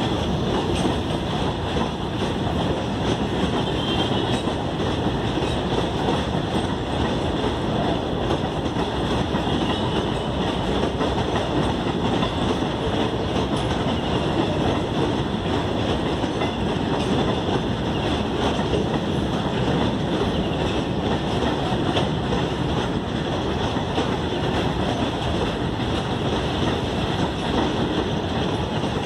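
A long freight train of covered goods wagons rolling past, the steady rumble of its wheels on the rails.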